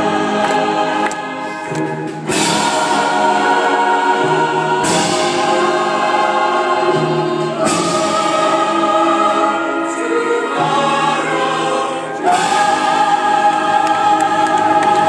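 Choir singing long held chords that change every two to three seconds, loudest near the end, as a song's closing passage.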